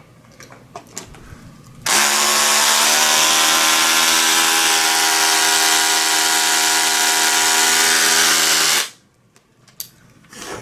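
A power drill runs steadily for about seven seconds, driving a neck screw into the wooden bass body, then stops abruptly. A few light handling clicks come before it starts.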